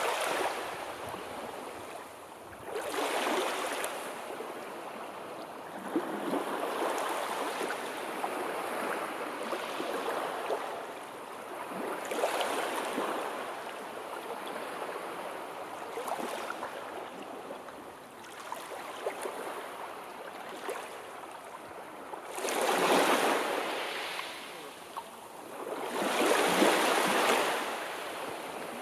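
Sea waves washing in and drawing back, a rush of water that swells every few seconds, the two loudest swells coming near the end.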